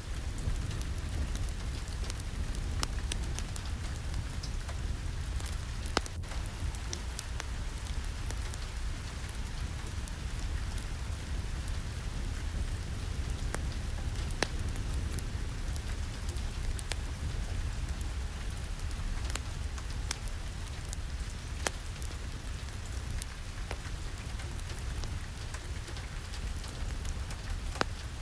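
Steady rain with a deep rumble underneath, mixed with a wood fire in a fireplace crackling in scattered sharp pops.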